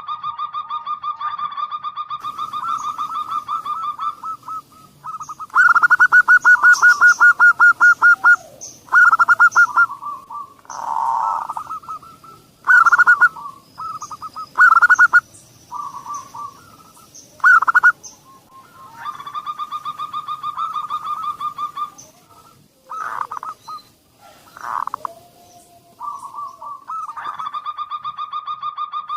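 Zebra doves (perkutut) cooing. Loud, rapidly pulsed trilling phrases of several seconds each, broken by shorter bursts and brief pauses.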